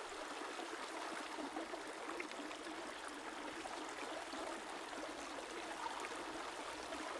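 A river flowing: the steady, even rush of running water.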